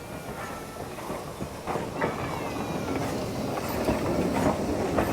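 Heritage steam railway train running on the line: a steady rumble with irregular clicks of the wheels over rail joints, growing louder toward the end.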